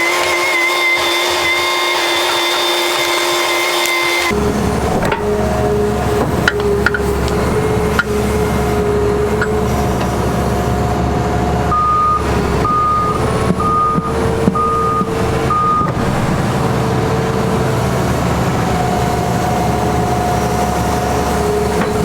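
Caterpillar 336E excavator's diesel engine working under load, with hydraulic whine and occasional metal clanks. About midway, five short beeps from its travel alarm as it tracks. For the first few seconds a steady high whine stands alone, then the heavy engine rumble cuts in abruptly.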